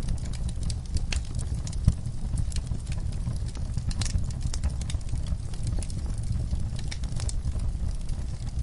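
Wood logs burning in a fireplace: a steady low rumble of flame with frequent irregular crackles and pops, one sharper pop about two seconds in.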